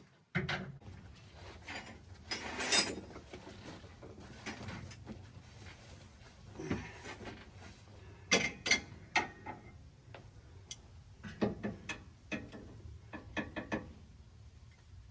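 Scattered metallic clicks, clanks and knocks of hand tools and suspension parts being worked, with bursts of quick ratchet-like clicking, over a steady low hum.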